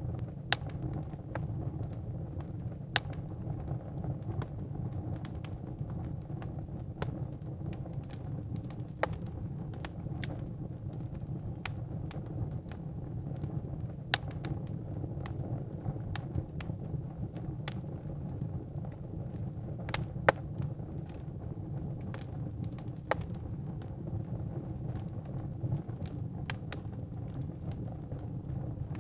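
Firewood burning in a fireplace: a steady low rumble of the flames with irregular sharp crackles and pops from the wood, the loudest pop about twenty seconds in.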